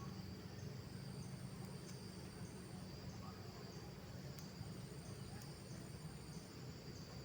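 Forest insects such as crickets calling at dusk: a steady high buzz, a higher trill that starts and stops twice, and a soft chirp repeating about twice a second, over a low steady rumble.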